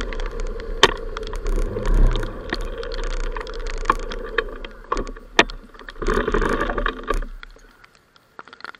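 Wind and riding noise from a moving motorbike, heard through an action camera's microphone, with sharp clicks and knocks scattered through it. About seven seconds in the noise drops away suddenly, leaving only scattered faint ticks.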